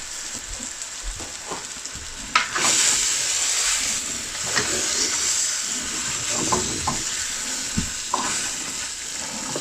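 Marinated chicken pieces frying in a pan of spice masala: a steady sizzle that grows louder about two and a half seconds in as the chicken goes in, with scattered knocks and scrapes of a spoon stirring.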